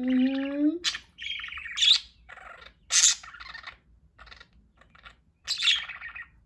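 Pet budgerigars chirping and chattering in short, irregular bursts of high warbling. A brief low hum from a person's voice sounds at the very start.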